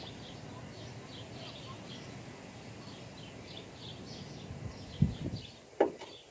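A small bird chirping over and over in short high chirps, over steady outdoor background noise. Near the end come two brief, louder sounds less than a second apart.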